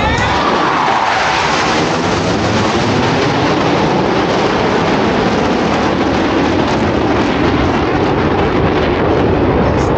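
Jet engines of Blue Angels Boeing F/A-18 Super Hornets passing low, the pitch falling over the first two seconds, then a steady, loud jet noise as the aircraft break away.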